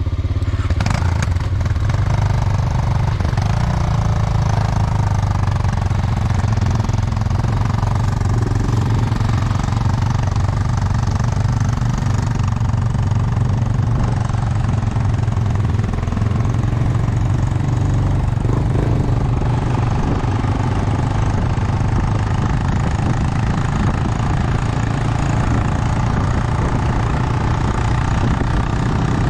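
Motorcycle engine running steadily, with no change in pace.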